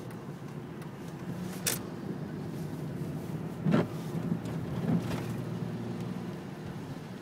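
Steady rain hiss over a low, steady vehicle hum, with a few sharper taps of drops, the loudest about three and a half seconds in.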